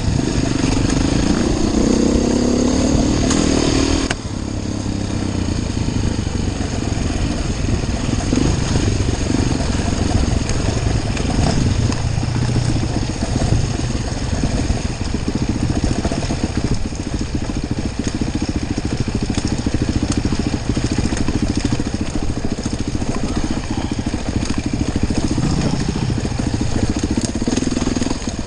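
Enduro motorcycle engine running under load on a trail. It revs up over the first four seconds, drops off suddenly, then keeps rising and falling with the throttle, revving up again near the end.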